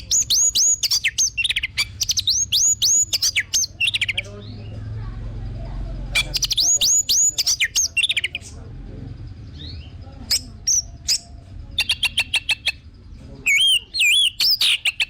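Orange-headed thrush (anis merah) singing: loud phrases of quick, repeated whistled notes, about six bursts with short pauses between them.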